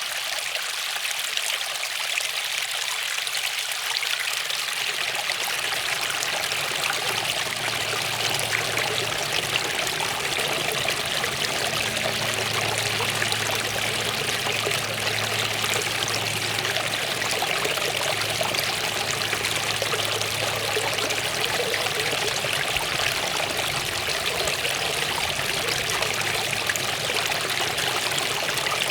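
Waterfall running steadily: an even rush of falling and splashing water. A faint low hum joins underneath after a few seconds.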